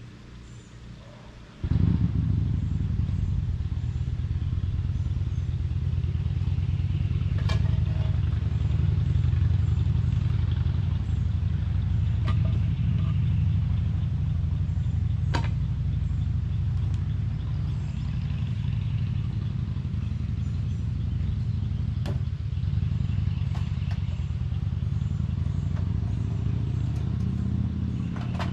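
A motor engine running at a steady low rumble, cutting in abruptly about two seconds in, with a few light clicks and knocks over it.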